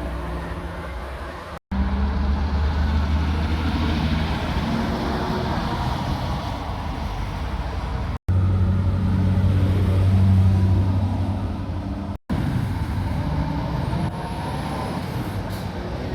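Heavy lorry diesel engines running as they drive past, a deep low drone that is loudest about ten seconds in. The sound breaks off abruptly three times where short clips are joined.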